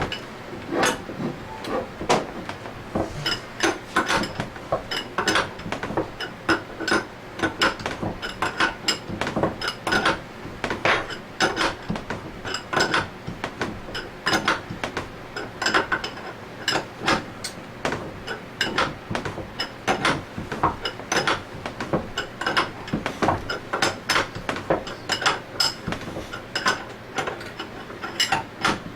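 Metal hand tools clicking and clinking over and over as a threaded bearing puller is worked to draw two bearings out of an Anest Iwata scroll pump, a few irregular clicks a second.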